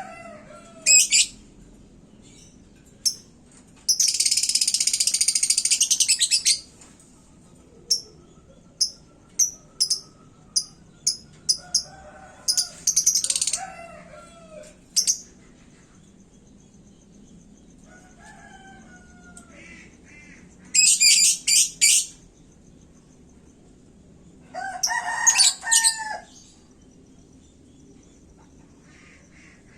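Lovebird singing in shrill, rapid bursts of chattering trills. The longest trill, about two and a half seconds, comes about four seconds in, followed by a quick run of short chirps and several more bursts later on.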